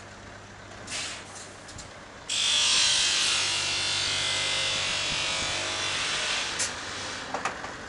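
A loud, steady hiss of compressed air that starts abruptly about two seconds in and lasts about four seconds before dying away, over a low steady hum, with a few light clicks near the end.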